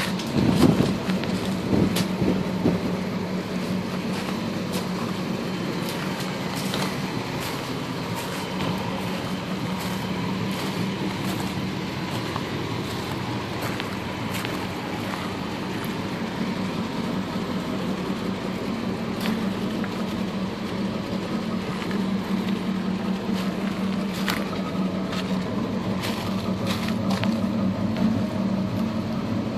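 1977 Pontiac Trans Am's V8 engine idling steadily. A few louder knocks come in the first few seconds, with scattered light clicks throughout.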